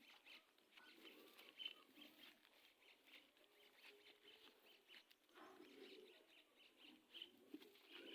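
Faint, scattered bird chirps, over a quiet low background murmur.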